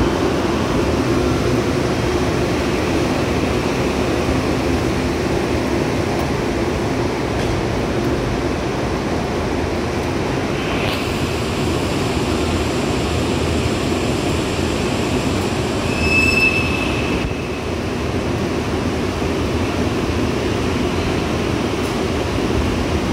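An N700S 9000-series Shinkansen test train rolls slowly along the platform and comes to a stop, with a steady rumbling running noise. There is a short high squeal about 16 seconds in, and the steady noise carries on once the train stands still.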